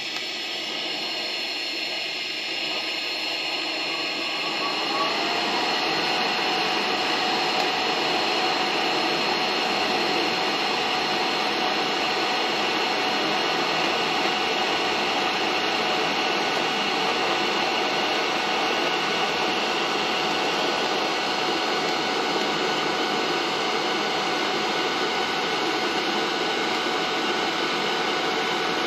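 TIG welding on a steel exhaust pipe: a steady hiss and hum from the welder that builds over the first five seconds, then holds level.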